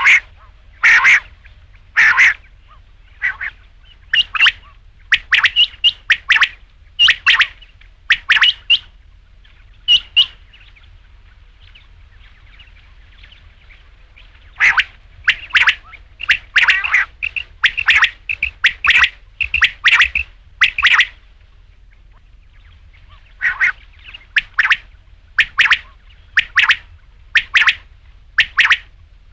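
Quail calling: a loud series of short, sharp repeated notes, breaking off for a few seconds about ten seconds in and again around twenty-two seconds before resuming.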